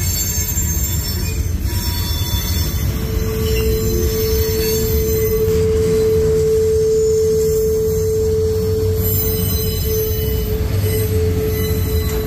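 Freight cars of a passing manifest train rolling by with a steady low rumble of wheels on rail. About three seconds in, a steady wheel squeal sets in and holds.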